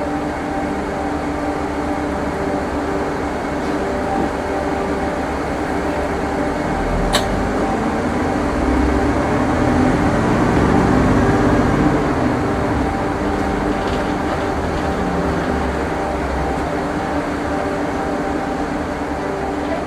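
Inside a moving city bus: steady drivetrain hum and road rumble, swelling louder as the bus picks up speed about halfway through, with a single sharp click.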